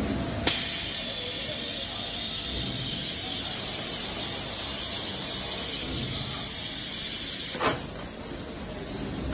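A pressurized jet on a production-line machine hissing loudly and steadily. It switches on sharply about half a second in and cuts off with a click near the end, as a valve opens and closes.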